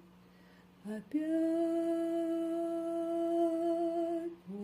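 A singer humming one long, steady note, held for about three seconds after a second of near silence, with a short lower note sliding up into it.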